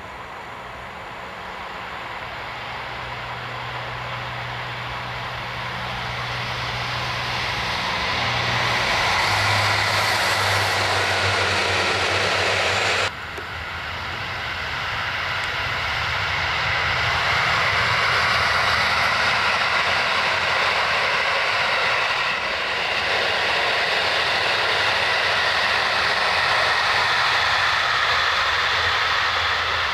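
A train running past, growing steadily louder with a low engine drone under a broad rushing roar. The sound breaks off abruptly about 13 seconds in, then builds again and stays loud and steady.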